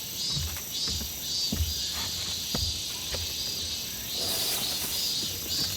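Crickets chirping in a steady pulse about twice a second over a continuous high insect drone. There are scattered soft knocks and a brief rustle about four seconds in.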